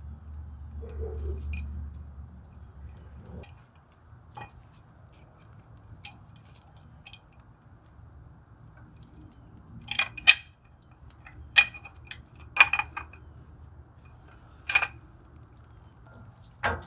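Sharp metallic clinks and taps of parking brake shoe hardware and hand tools being handled, scattered in the second half, several in quick succession. A low hum stops about three and a half seconds in.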